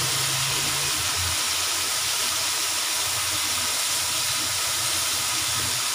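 Ginger-garlic paste frying in hot oil with browned onions: a steady sizzling hiss.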